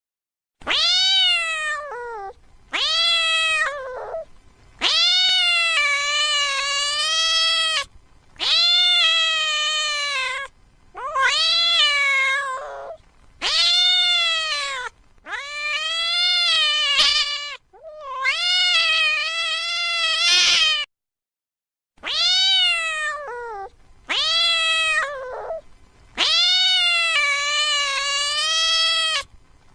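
A domestic cat meowing over and over in long, drawn-out calls, about eleven in all, each one to three seconds long with short pauses between them.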